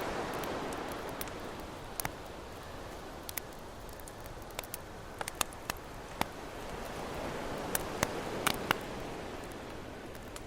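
Campfire crackling with sharp, irregular pops over ocean waves washing in and out; one wave is receding at the start, and another swells in around two-thirds of the way through.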